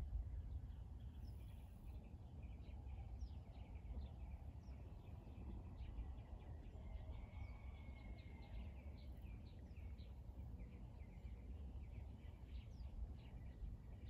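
Several birds chirping in quick, short calls, with one longer held note about halfway through, over a faint, steady low rumble.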